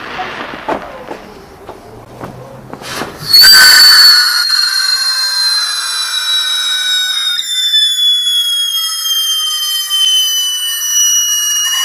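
A screamer firework whistling: a loud, shrill scream starts about three seconds in and holds on, slowly falling in pitch. It is painful to hear.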